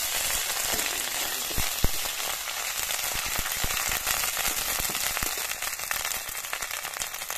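Sliced onions and chillies frying in hot oil in a metal kadhai, sizzling steadily, while a flat metal spatula stirs them with frequent scrapes and taps against the pan. The sharpest knock comes about two seconds in.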